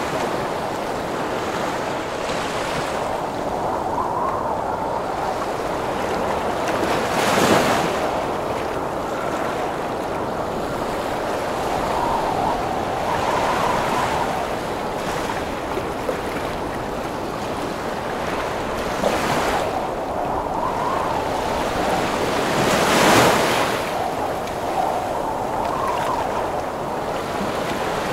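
Heavy ocean waves breaking in a windstorm, with gusting wind howling over a constant surf roar. Two bigger waves crash, about a third of the way in and again near the end.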